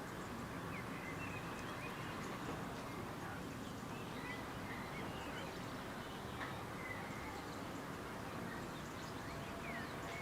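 Scattered short bird chirps and little whistles over a steady outdoor background hiss and rumble.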